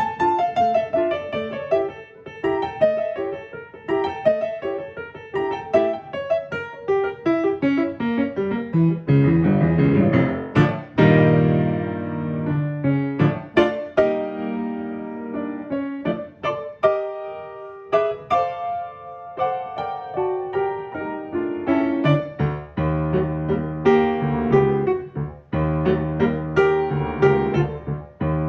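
Piano playing: fast repeated-note figures and runs, with heavier struck chords about ten seconds in and again near the end.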